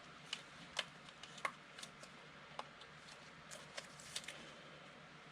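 Trading cards being handled and sorted: faint, light clicks and taps of card stock, irregularly spaced, a little more than one a second.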